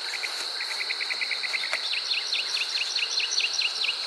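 Steady high-pitched trill of crickets or other insects. Over it a bird sings a run of quick short notes, then from about halfway through a series of falling whistles, about four a second.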